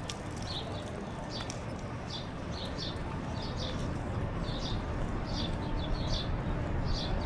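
Small birds chirping in short high notes, about two a second, over a steady low rumble.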